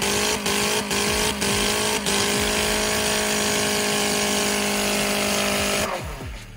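Nissan Sentra engine held at high revs, with glass, a bolt and rocks in its oil; for the first couple of seconds the revs stutter in short regular dips, then hold steady. About six seconds in the revs fall away and the sound drops off.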